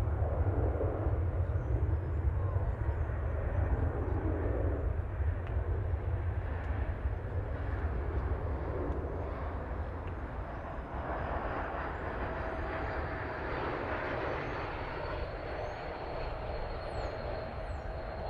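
Jet airliner engines running, a steady rumble with a faint high whine that slowly falls in pitch over the second half.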